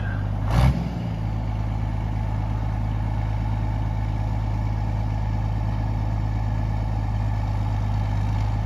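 Case 1175 tractor's turbo diesel engine running steadily at low speed, with a deep, even drone and one brief knock about half a second in.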